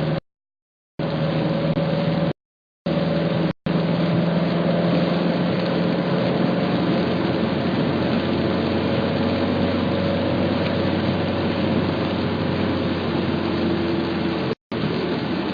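Car driving: steady road and engine noise with a low hum. It drops out to dead silence abruptly a few times in the first four seconds and again near the end.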